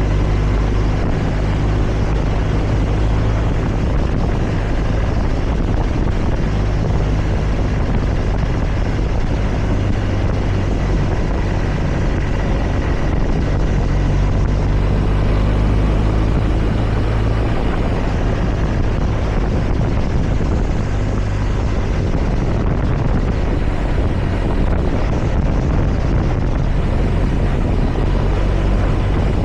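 Motorcycle engine running steadily at cruising speed, with a rush of wind and road noise.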